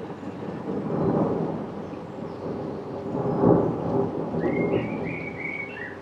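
Thunder rumbling over falling rain. It swells about a second in and is loudest about three and a half seconds in, then fades back. A few short high chirps come in near the end.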